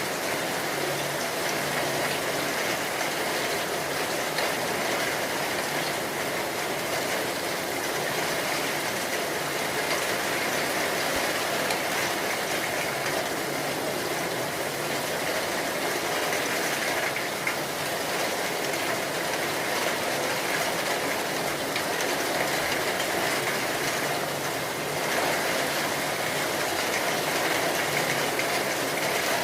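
Rain falling steadily, an even rushing hiss with no thunder in it.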